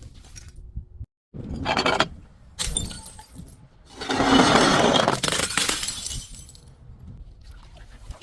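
Glass bottle breaking: two short crunches, then a louder burst of shattering glass about four seconds in that trails off over a couple of seconds.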